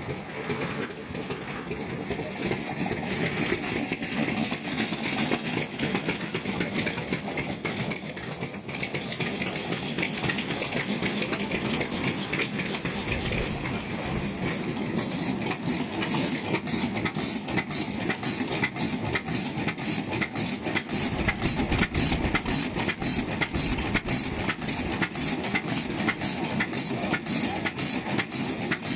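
Vintage stationary petroleum engines running, a steady fast mechanical clatter that becomes more regular and distinct in the second half.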